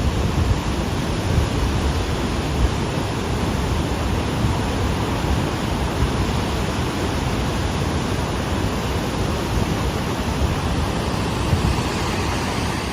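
Floodwater rushing in a torrent down a street, a steady loud roar of water with a deep rumble low down, which is taken as the sound of the flood carrying a lot of stones.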